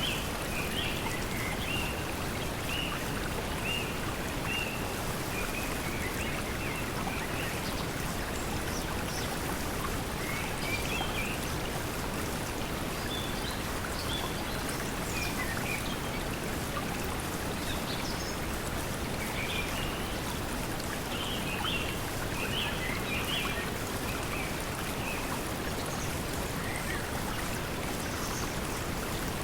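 Steady pink noise mixed with the sound of flowing water, with short, high bird chirps now and then.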